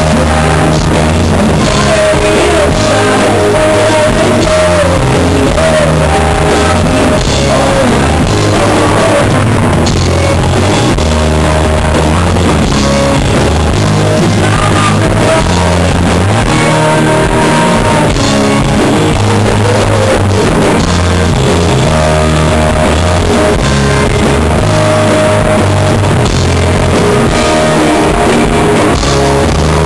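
Full rock band playing a song live and loud, with drums, electric guitar and a lead voice singing.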